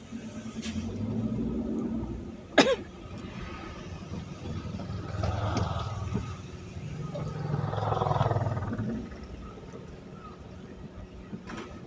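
Road vehicles such as trucks and buses passing one after another on a rain-wet road, their engines swelling and fading in turn. A single short, sharp sound cuts in about two and a half seconds in.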